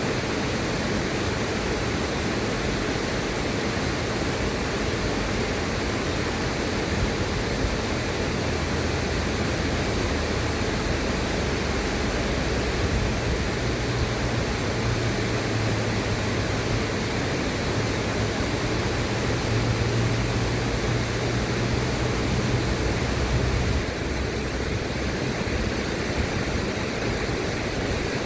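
Steady rushing of river water, an even hiss. A low rumble joins in about halfway through and stops a few seconds before the end.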